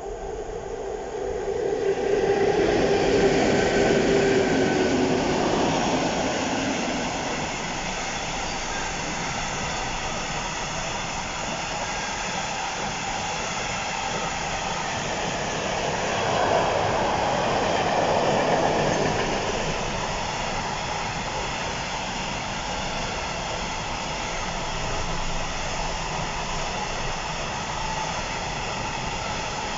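A container freight train passing close along a station platform without stopping. The locomotive goes by loudest a couple of seconds in. After it comes the steady running noise of the wagons' wheels on the rails, which swells again briefly about halfway through.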